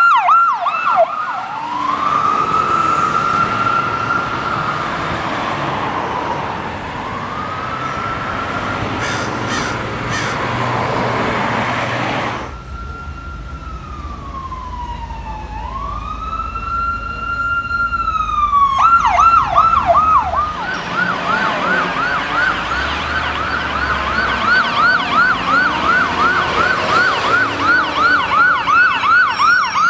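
Electronic emergency-vehicle sirens going by on a code 3 response. They cycle through a slow rising-and-falling wail and a quick yelp, then switch near the end to a fast warble of about three sweeps a second. A heavy vehicle rumbles past near the middle.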